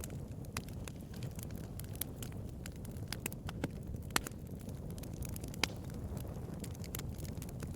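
Wood fire burning: a steady low rumble of flames with irregular sharp crackles and pops, a few louder pops standing out about four and five and a half seconds in.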